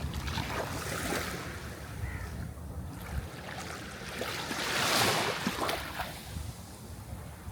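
Sea waves washing in and drawing back as a continuous rushing noise over a low rumble, with one louder wave surging about five seconds in.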